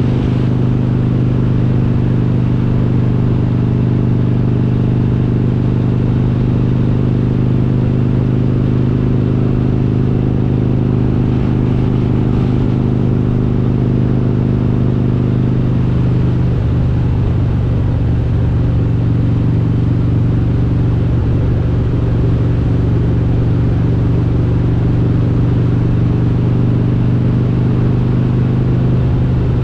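Harley-Davidson Road King's V-twin, built to 95 cubic inches with S&S parts and Super Stock cylinder heads, running steadily while riding. Its note shifts slightly a little over halfway through.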